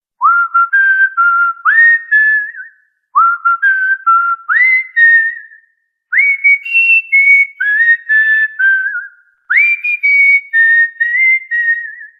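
Cockatiel whistling a tune: four short phrases of clear notes, each phrase opening with a quick upward slide, with brief pauses between them.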